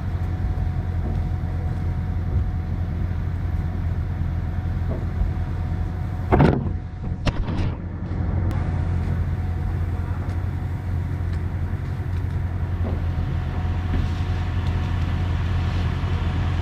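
An engine running steadily at a constant speed, with a few loud knocks and scrapes about six and a half seconds in.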